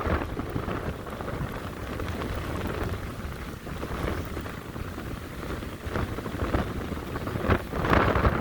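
Storm-force wind buffeting the microphone in gusts, a rumbling noise that eases after the start and swells again near the end.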